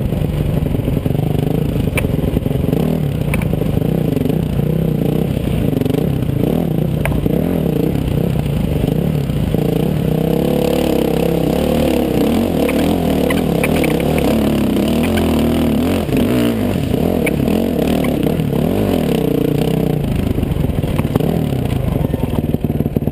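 Dirt bike engine running under way, its pitch rising and falling with the throttle, with scattered knocks and clatter.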